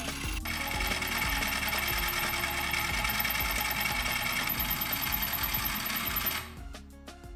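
Homemade scroll saw's reciprocating mechanism running, its 775 DC motor driving the crank and blade through a timing belt, with a steady high whine. It stops about six seconds in, when the speed controller is turned down.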